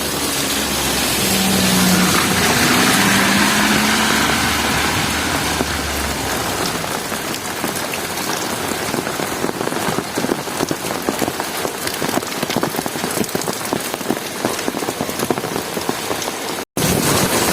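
Heavy rain falling and pattering on hard surfaces, with many close individual drop impacts. A faint low hum rises slightly in pitch in the first few seconds, and the sound cuts out for an instant near the end.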